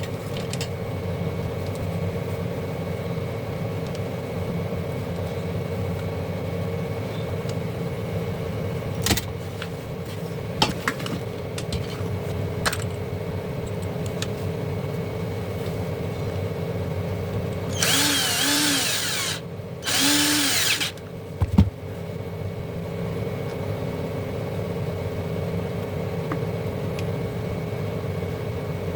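A steady hum throughout, with a few clicks. About two-thirds of the way in, a small electric motor whirs twice, each time for about a second, its pitch bending, followed by a knock.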